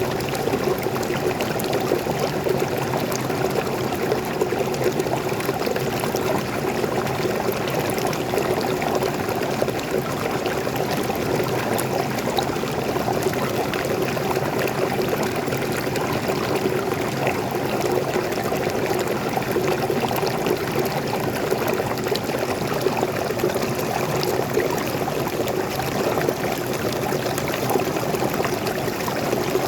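Steady rushing and splashing of a forest waterfall and stream, constant in level.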